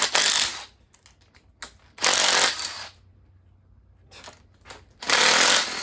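Handheld power tool turning a socket on engine bolts, run in three short bursts of about a second each as the bolts are spun out.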